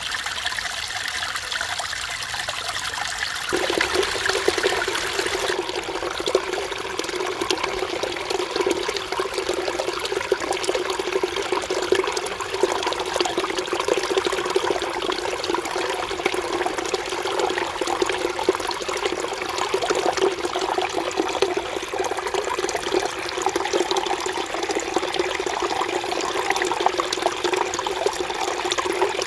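Mountain stream water running and splashing over rocks, a steady rushing babble. A few seconds in, the sound shifts to a fuller, lower-pitched gurgle with less high hiss.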